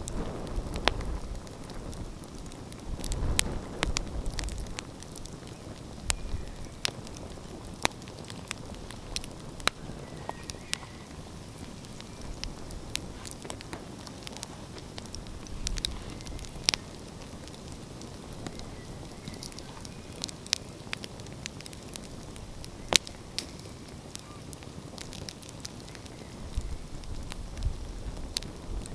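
Wood fire crackling, with sharp pops at irregular moments over a steady hiss. A low rumble swells in the first few seconds and again near the end.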